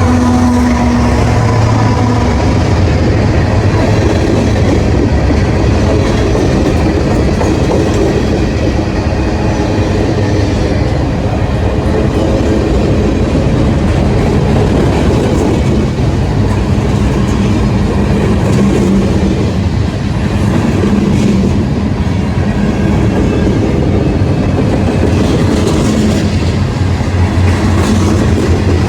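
Train rolling past at close range: a steady, loud rumble of rail cars with clicking wheels. A locomotive's engine tone is heard in the first second or two, then fades into the rumble.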